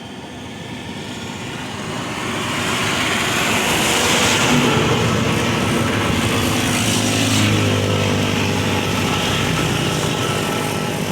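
Motor vehicle engine and road noise that builds up over the first two seconds and stays loud, with a rushing sound peaking about four seconds in and a steady low engine note after it.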